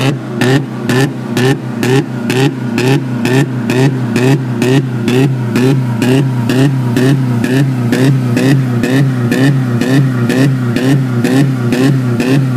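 1992 Honda Civic engine running unevenly, its sound swelling and falling in a steady rhythm of about three pulses a second.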